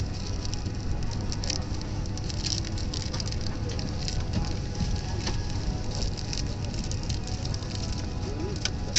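Airliner cabin at the gate: a steady low hum from the cabin air system, with many light clicks and rustles scattered throughout.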